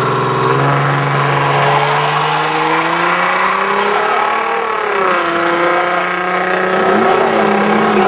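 Car engine revving hard as it accelerates away from a drag-race start, its pitch climbing steadily and dropping at a gear change about halfway through.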